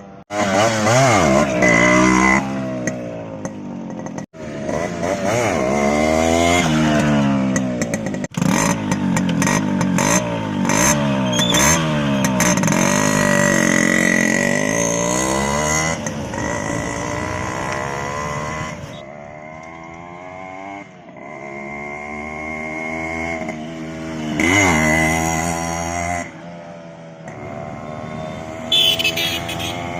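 Yamaha RX-100's 98 cc air-cooled two-stroke single-cylinder engine revving up and down again and again, with a couple of abrupt cuts early on and a quieter, lower-revving stretch past the middle.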